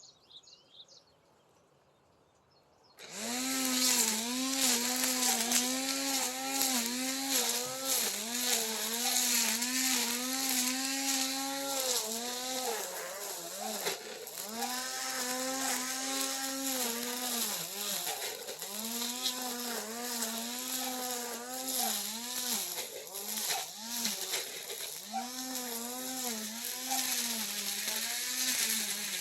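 Brush cutter engine running at high speed while cutting grass, its pitch rising and dipping every second or two as the throttle is worked. It starts suddenly about three seconds in, after a near-silent pause.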